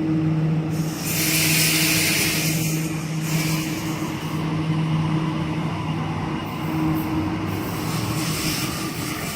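Sydney Trains Waratah (A set) electric train pulling out of the station: a steady electric hum throughout, with a loud hiss of air from about a second in that lasts a couple of seconds.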